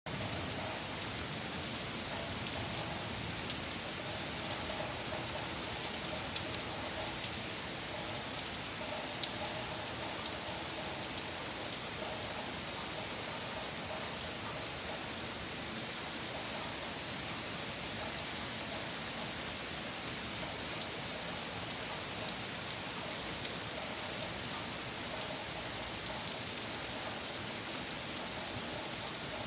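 Heavy rain from a thunderstorm falling steadily in an even, dense hiss, with scattered sharp ticks of single drops striking close by.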